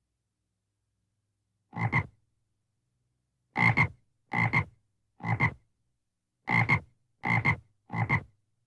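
Frog croaking: seven short croaks, each split into two quick pulses, the first alone about two seconds in and the other six following in quick succession.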